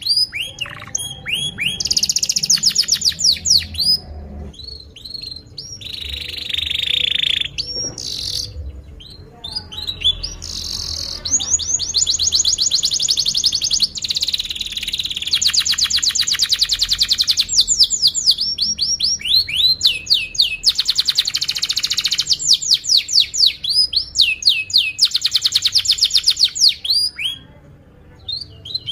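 Domestic canary singing a long, continuous song made of rapid trills, each phrase a fast run of repeated high notes, with only brief breaks between phrases.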